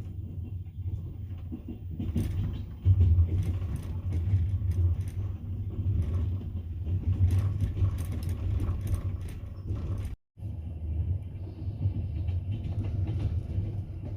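Double-decker passenger train running, heard from inside the carriage: a steady low rumble from the wheels on the rails, with scattered clicks and creaks of the car body. The sound cuts out briefly about ten seconds in.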